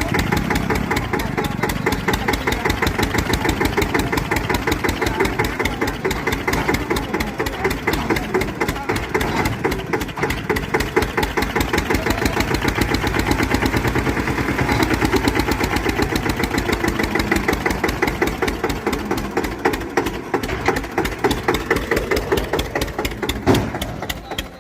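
Eicher 241 tractor's single-cylinder air-cooled diesel engine running steadily, with rapid, even firing thumps.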